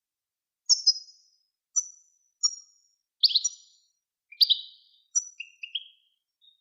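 Songbird song from a recording made for tutoring captive birds: a series of short, high, bright chirped phrases separated by brief gaps of dead silence.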